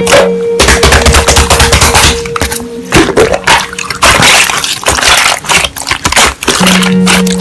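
Slime being squished and worked by hand, giving quick wet crackling and clicking pops, over instrumental background music with held notes.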